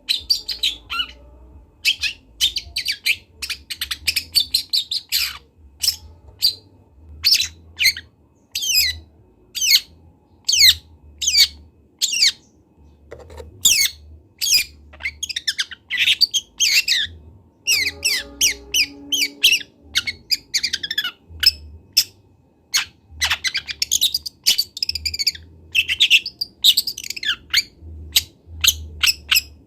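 A young long-tailed shrike (cendet trotol) sings a rapid, unbroken string of short, sharp chirps and scratchy notes, several a second. This is a juvenile bird still learning its song.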